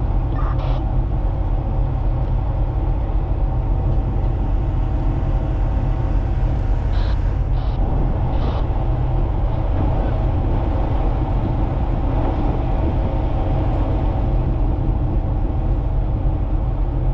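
Marine diesel engine running at a steady load: a constant low drone with a steady multi-toned hum that does not change.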